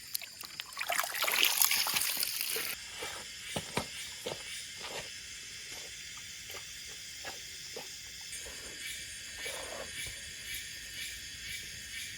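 Water sloshing and splashing loudly for about two seconds, then dripping and trickling in scattered drops over a steady high hiss. Near the end a faint chirping repeats about twice a second.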